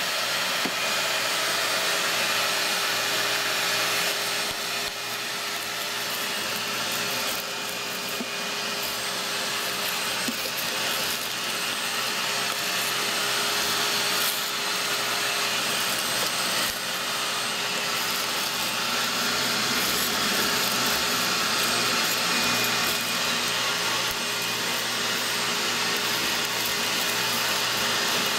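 Vacuum cleaner running steadily while it sucks soot and combustion debris out of an oil-fired boiler's firebox.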